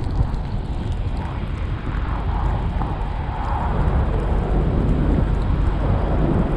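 Steady road and engine rumble heard from inside the cabin of a GMC Yukon SUV driving on snow-covered roads.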